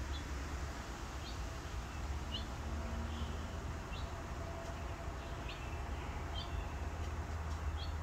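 A small bird giving a short, rising chirp about once a second, over a steady low rumble.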